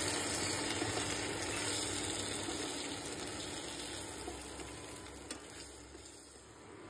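Chana dal fara dumplings sizzling in hot oil and spices in a nonstick pan as a plastic spatula turns them, the sizzle dying away gradually toward the end.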